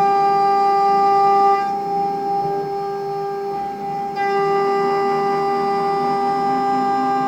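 CNC mill cutting aluminium: a loud, steady pitched whine from the cutter in the metal. The whine fades to a rougher, quieter cutting noise about a second and a half in, then comes back strongly after about four seconds.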